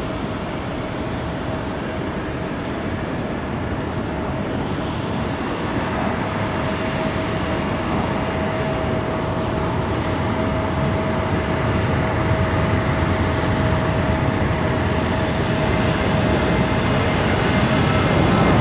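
Jet airliner engines running, a steady rumble with a thin steady whine, slowly growing louder.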